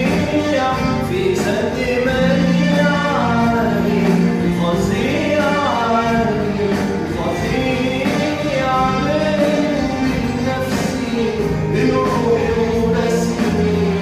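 Male voices singing an Arabic song, the melody gliding and ornamented, over sustained musical accompaniment.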